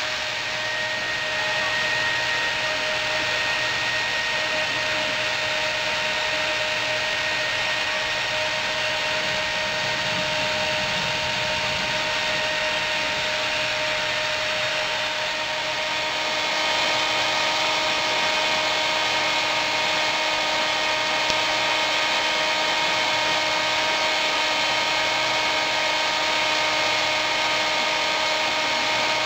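Hair dryer running steadily, a constant rush of air with a steady motor whine, getting a little louder about halfway through.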